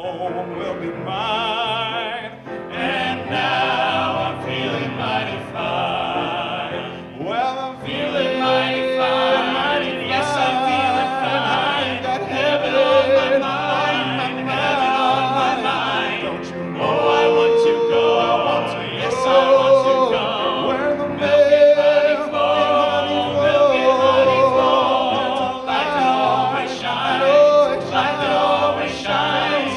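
Vocal group singing a gospel song over instrumental accompaniment, with long held notes sung with vibrato.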